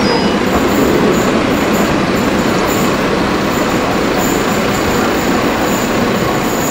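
Athens Metro Line 1 electric train running away from the platform around a curve: a steady rumble of wheels on the rails that slowly fades toward the end.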